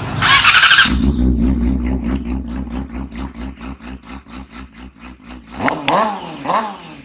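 Intro sound effect of a motorcycle engine. A short bright burst comes first, then the engine runs with a pulsing beat that gradually slows. Near the end come quick revs that rise and fall in pitch.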